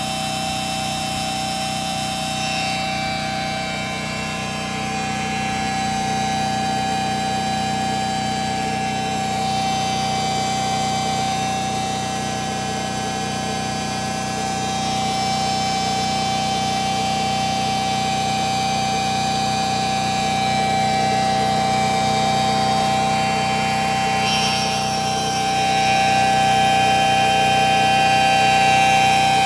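A machine running steadily with a constant whine over a mechanical hum, growing slightly louder near the end.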